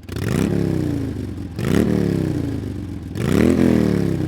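Honda Shadow's V-twin motorcycle engine revved three times, each rev climbing quickly in pitch and then sinking slowly back down.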